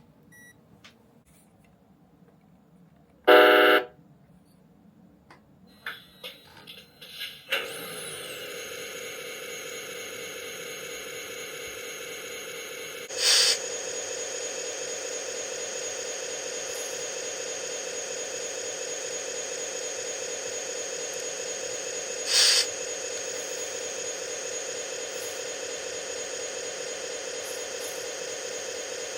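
The R/C truck's electronic sound unit playing truck sounds through its small speaker: a short horn blast, then a few clicks and a steady engine sound from about seven seconds in. The engine sound grows louder about thirteen seconds in, and short bursts of air hiss come about thirteen and twenty-two seconds in.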